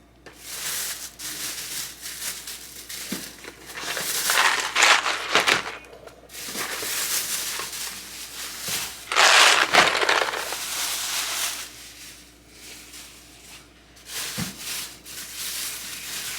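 Plastic grocery bags and packaging rustling and crinkling in bursts as groceries are unpacked, loudest twice, about four and nine seconds in.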